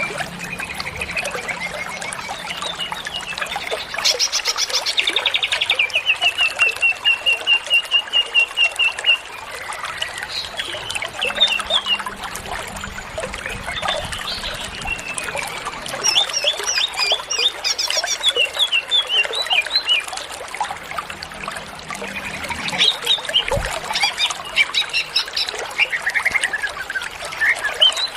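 Green leafbird (cucak ijo) singing a long, varied song of whistles, rapid chirp series and trills, the busy mimicry-filled song bird keepers call 'gacor full isian', over a steady trickling hiss.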